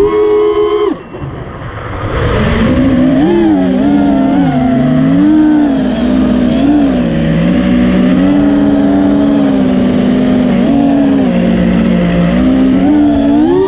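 5-inch FPV quadcopter's brushless motors and propellers whining, the pitch rising and falling with the throttle. About a second in the throttle drops off and the sound falls away, then the motors spool back up; near the end they climb to a high pitch.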